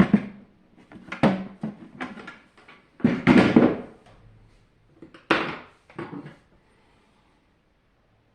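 Plastic housing and parts of a SilverCrest SLE 450 A1 dehumidifier being handled during disassembly. About six separate knocks and clatters come in the first six seconds or so, and the last two seconds are near quiet.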